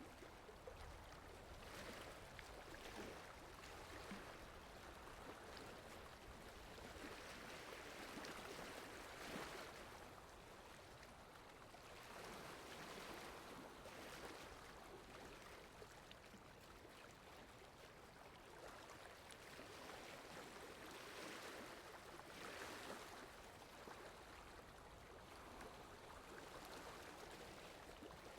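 Faint, steady rain ambience: an even wash of falling rain, swelling and easing slightly, with no music heard.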